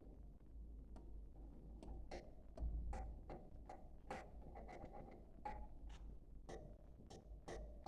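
Budgerigars chirping and chattering faintly, in short, irregular chirps and clicks several times a second, over a low steady hum.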